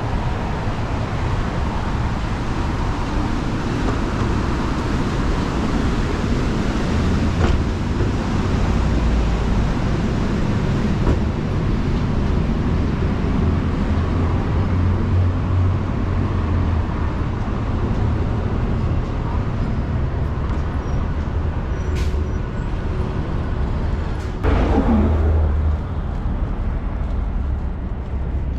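City street traffic: a steady rumble of passing cars and buses. Near the end a short sound slides downward in pitch as the level briefly jumps, just after a sharp click.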